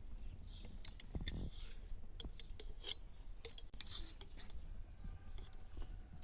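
Utensils clinking and scraping against dishes and a pot during food preparation, a string of short, sharp clinks at an irregular pace.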